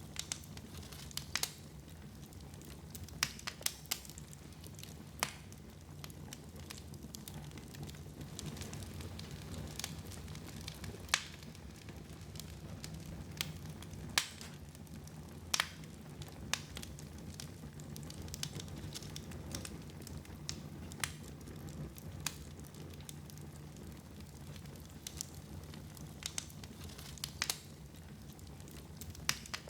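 Wood fire crackling in a fireplace: irregular sharp pops and snaps, roughly one every second or two, over a steady low rumble.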